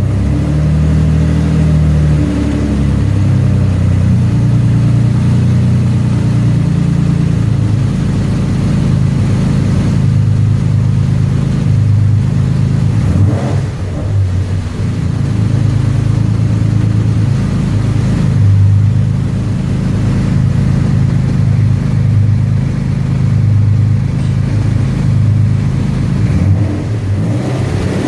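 Twin-turbocharged V6 of a 2004 Nissan 350Z running on a chassis dyno, held steady at a low pitch, with a brief drop in loudness about halfway through.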